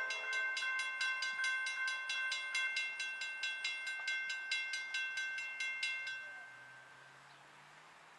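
Railroad grade-crossing warning bell ringing in fast, even strikes, about four a second, fading out after about six seconds. A faint low hum follows near the end.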